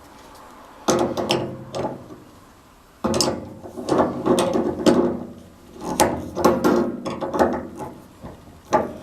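Socket ratchet clicking in several short bursts of strokes while a fastener is turned.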